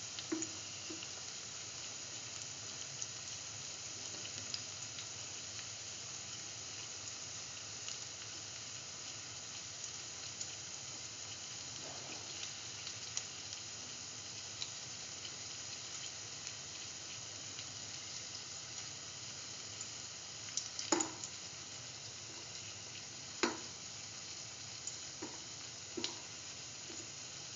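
Split chickpea fritters shallow-frying in oil, a steady sizzle, with a few sharp clicks standing above it, mostly in the last third.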